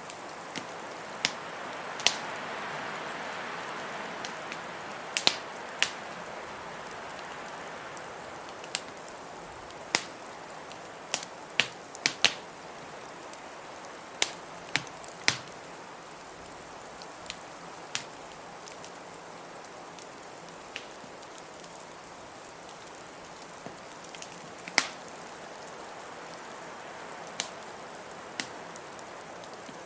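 Wood fire in a fireplace crackling, with sharp, irregular pops every second or so, over a steady rush of blizzard wind that swells briefly a few seconds in.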